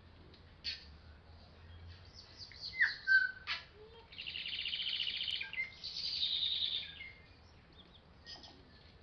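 Forest birds calling: scattered short chirps and a quick falling whistle, then two rapid trills of about a second each, one straight after the other, near the middle.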